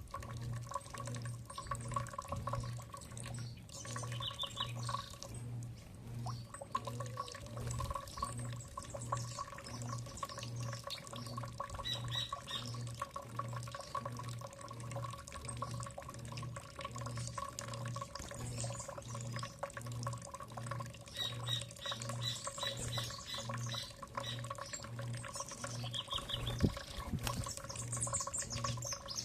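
Birds calling in short runs of rapid repeated high notes, several times, over a constant trickle of water with small clicks and drips. A steady low mechanical hum pulses about once a second underneath.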